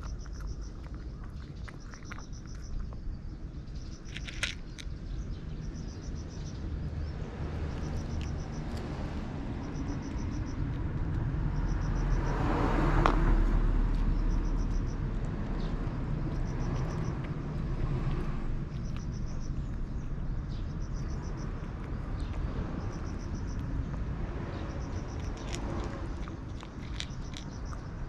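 A passing vehicle's rumble swells to its loudest about halfway through, then fades away. A short, high pulsed chirp repeats about every two seconds. Small crunching clicks of a cat chewing dry food come near the start and again near the end.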